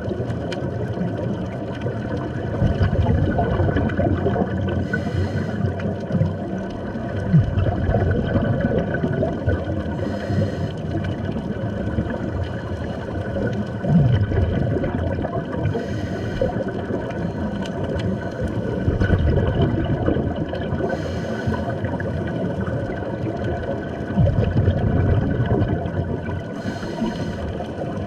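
Scuba diver breathing through a regulator underwater: a short hiss of inhalation about every five and a half seconds, each breath followed by a low bubbling rumble of exhaled bubbles.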